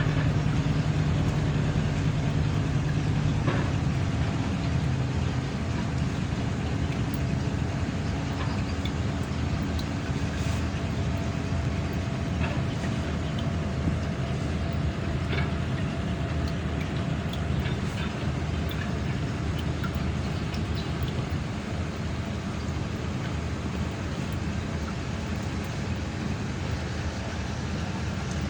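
An engine running steadily with a low rumble; its steady low tone fades a few seconds in, and scattered small knocks and clicks sound over it.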